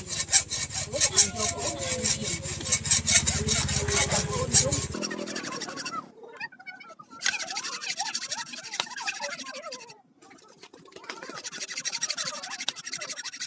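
Rapid, even scraping strokes on a steel knife blade, about seven a second, over a low hum for the first five seconds. After that come stop-and-start runs of scraping with two short pauses.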